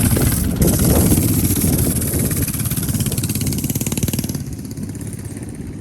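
Small mini bike engine running close by, loud, then quieter about four seconds in as it moves off.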